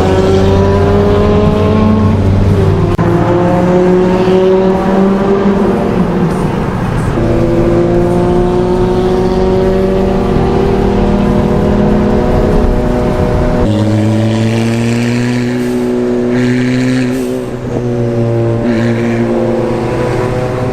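Toyota MR2 Spyder's turbocharged four-cylinder engine and exhaust under way, the note holding and slowly rising, then stepping to a new pitch three times as it goes through the gears.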